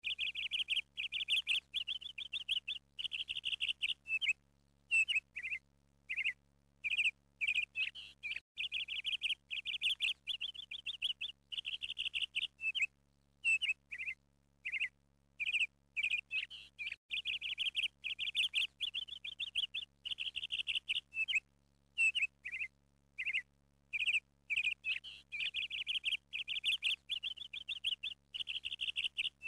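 Birdsong: a small bird's chirps and rapid trills, sung in phrases with short gaps between them.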